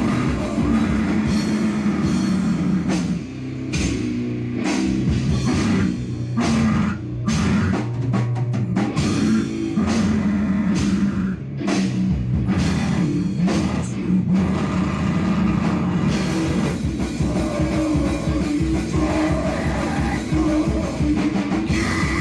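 Loud live heavy, distorted rock or noise music with a drum kit, dense sharp hits through much of it and sustained low notes.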